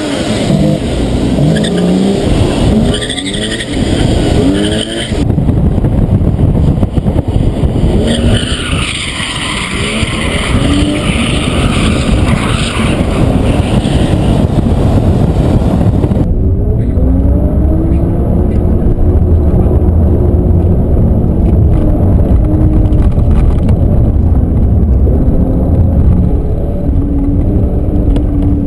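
BMW E34 M5's straight-six engine revving hard, with the rear tyres squealing as the car spins its wheels and slides. Later the engine is heard from inside the cabin, its note rising and falling as it pulls through traffic.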